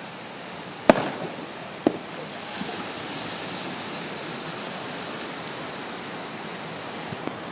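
Steady rushing wash of surf on a beach, swelling a little about three seconds in, with two sharp knocks about a second apart near the start.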